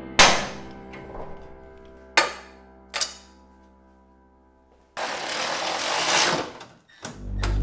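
Background music with three sharp knocks in the first three seconds, then a power tool running for about a second and a half, about five seconds in, and cutting off suddenly.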